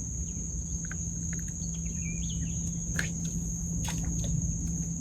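Insects trilling in one steady, continuous high-pitched tone, with a few short bird chirps near the middle and a couple of sharp clicks about three and four seconds in.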